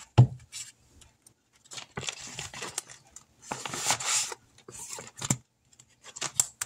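Paper rustling and handling: banknotes and paper being shuffled and tucked away, in irregular bursts, with a sharp click just after the start.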